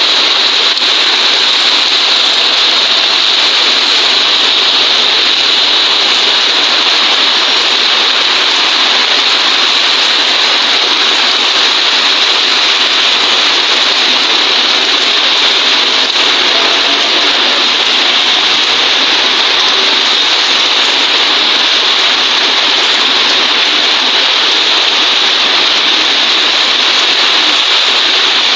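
Heavy rain falling, a loud steady hiss that stays even throughout.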